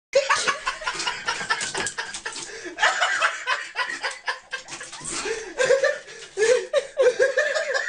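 Laughter in quick bursts, turning to longer pitched laughs about five seconds in.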